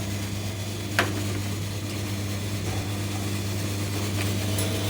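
Electric motor of a coconut-milk machine running with a steady hum, with one sharp click about a second in.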